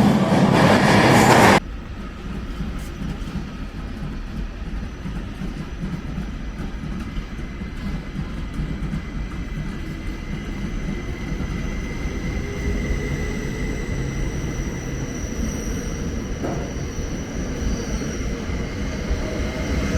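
Eurobahn regional electric train running on the line, heard as a steady rail rumble. The rumble drops abruptly to a quieter level about a second and a half in, after which faint high motor or wheel whines sit over it, one slowly rising in pitch.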